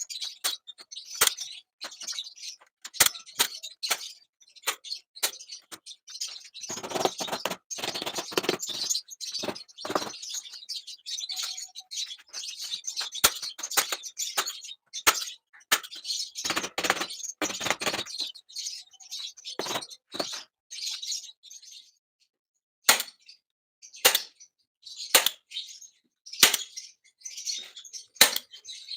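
Small cage birds chirping in quick, short notes throughout, with two longer stretches of rustling, about a quarter and about halfway through.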